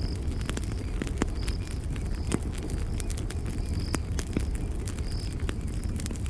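Campfire burning, with frequent sharp irregular crackles and pops over a low steady rumble. A short high chirp repeats about twice a second in the background.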